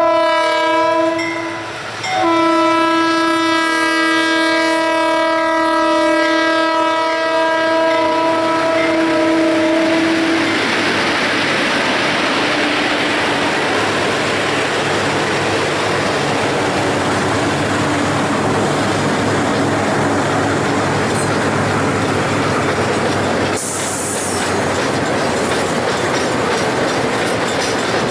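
Diesel freight locomotive air horn sounding one shorter blast and then one long blast of about eight seconds, as a multi-note chord. The train then rolls past with steady wheel-and-rail clatter over a low engine rumble.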